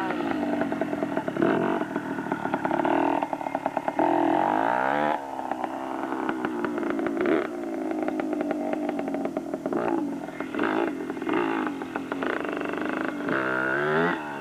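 Motorcycle engine being ridden and revved, its pitch climbing and dropping several times as the rider accelerates and shifts gears.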